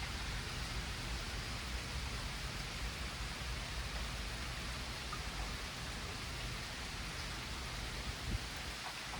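Steady rain falling in a thunderstorm: a continuous even hiss, with one brief tap about eight seconds in.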